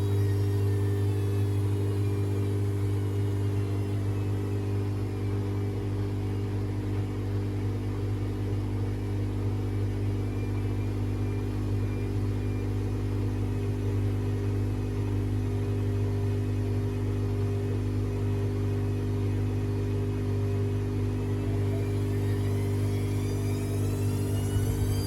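Washing machine running: a steady low hum with a faint motor whine that falls in pitch at the start and rises again near the end.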